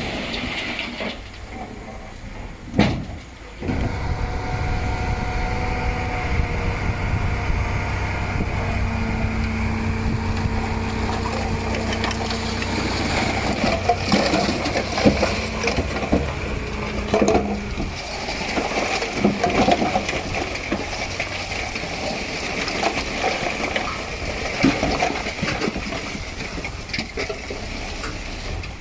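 Heavy diesel earthmoving machinery running under load, with a single sharp bang about three seconds in, a steady whine through the middle stretch, and scattered metallic clanks and rattles later on.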